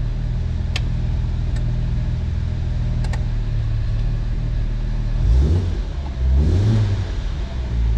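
1966 Jaguar E-Type Series I's straight-six engine idling, then revved twice, at about five and six seconds in: a healthy throttle response. A few light clicks sound over the idle in the first three seconds.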